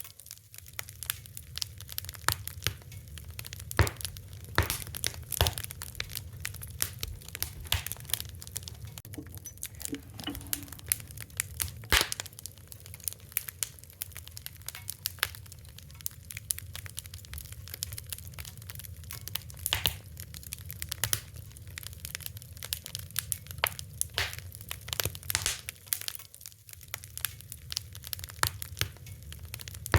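Wood fire crackling: irregular sharp pops and snaps, a few louder ones standing out, over a steady low rumble of flames.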